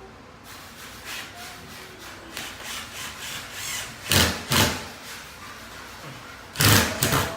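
Hand-tool work on a ceiling. First a run of short rasping strokes, then two heavy knocks about four seconds in and two more near the end.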